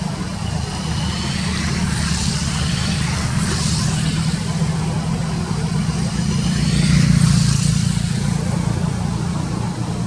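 Steady low engine drone, swelling about seven seconds in.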